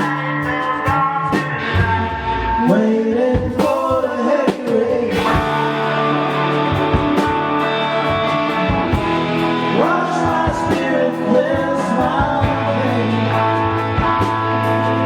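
Live band music: a singer's voice sliding between held notes over guitar chords, with a light, steady ticking beat.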